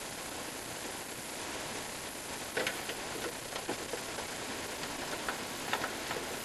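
Steady hiss with scattered light clicks and taps, which begin about two and a half seconds in and come irregularly.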